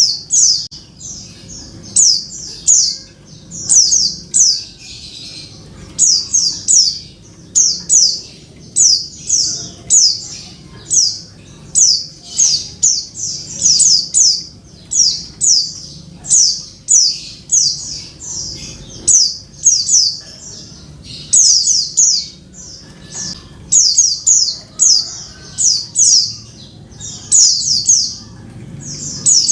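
Female white-eye (pleci) giving short, high, sharp call notes in quick clusters of two to four, repeated about once a second: a female call used as a lure to rouse a male into song.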